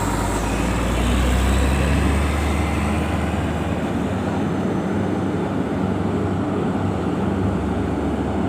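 Heavy diesel truck engine running with a steady low rumble, deepest and loudest for the first couple of seconds, then holding steady.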